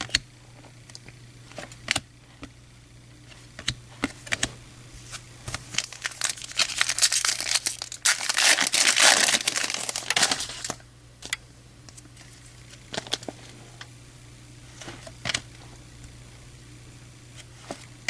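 A 2013 Topps baseball card pack's foil wrapper being torn open and crinkled, dense and loud for about four seconds in the middle. Scattered light clicks and taps come before and after it.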